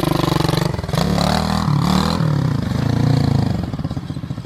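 Small 125cc pit bike engine revving up and down several times, its pitch rising and falling with the throttle.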